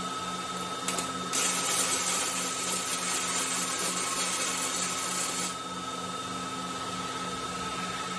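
CO2 (MIG) welding arc of a robotic welding cell, crackling and hissing for about four seconds, starting just over a second in. Under it runs a steady machine hum with a pulsing low drone and a high whine.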